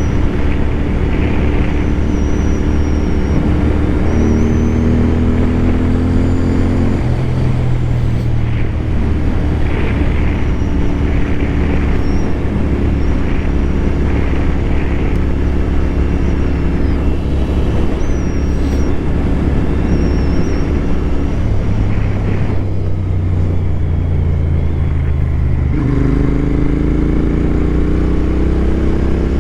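Royal Enfield Continental GT 650 motorcycle engine running on the road, with heavy wind rumble on the helmet microphone. The engine pitch shifts a few times and rises again near the end as the bike picks up speed.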